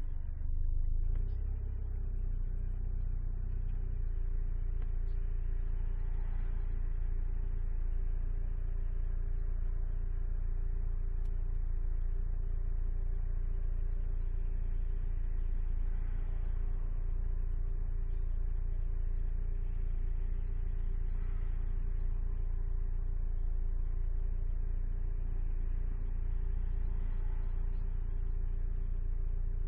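Alfa Romeo 156 at a steady speed, heard inside the cabin: a steady low engine and road rumble with a faint constant tone over it.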